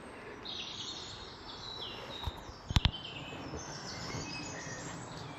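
Birdsong in a spring garden: several birds singing, with many short falling chirps over a faint background hiss. Two or three sharp clicks a little past halfway stand out above the song.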